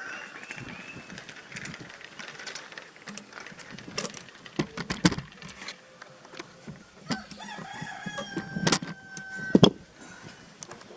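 A rooster crowing, one long held call about seven seconds in, with sharp knocks and taps scattered through, the loudest two near the end of the crow.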